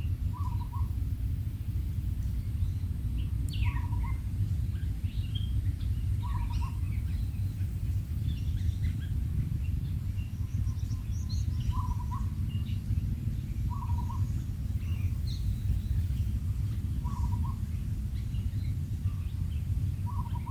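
Birds calling: a short low two-part call repeats about every two to three seconds, with scattered higher chirps between, over a steady low rumble.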